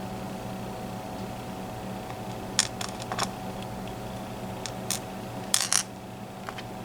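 Small, sharp metallic clicks and taps, scattered and irregular, as tiny lock parts (pins and drivers from a disassembled high-security pin-tumbler cylinder) and a tool are handled and set down, over a steady low hum.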